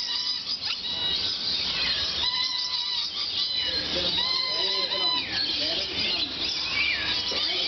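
Many lorikeets calling together: a dense, continuous chatter of high calls with short rising and falling whistles, some overlapping lower voices partway through.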